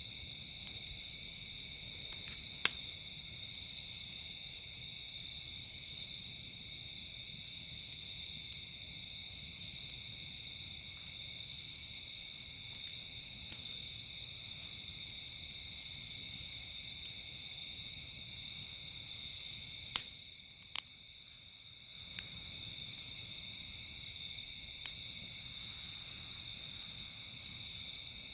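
A steady, high insect chorus with pulsing buzzes above it, and the occasional sharp pop of a crackling campfire, the loudest two about 20 seconds in.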